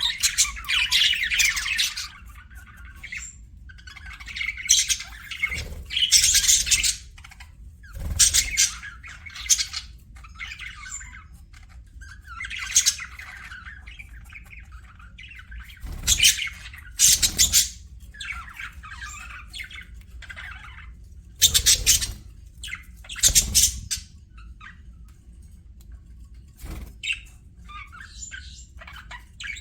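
Pet budgerigars chattering and warbling in bouts, broken by short, loud, sharp squawks.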